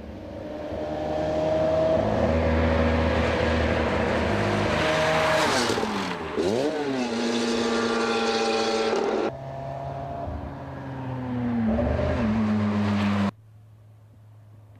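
Lancia 037's supercharged 2.0-litre four-cylinder engine revving hard as the car drives past, its pitch climbing, dropping at gear changes and rising again. The engine sound changes abruptly twice, and near the end falls to a much quieter low hum.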